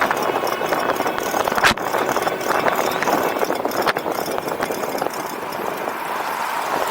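E-bike on the move: a steady rattling clatter of the ride, with a couple of sharper knocks.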